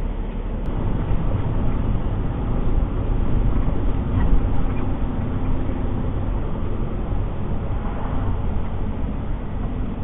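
A Peterbilt 389 semi truck driving, a steady run of engine and road noise.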